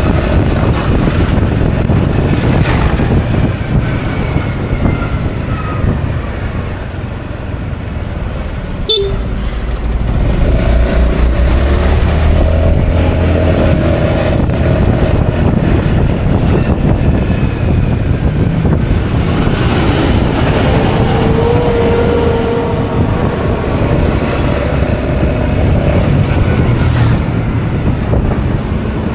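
Honda Forza 350 scooter on the move in traffic: wind rushing over the action camera's microphone, mixed with engine and road noise. A held tone rises out of the noise twice, and there is one sharp click about a third of the way in.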